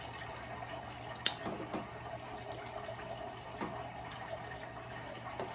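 Close-up eating sounds: soft chewing and mouth noises, with a sharp click a little over a second in, over a steady background hum.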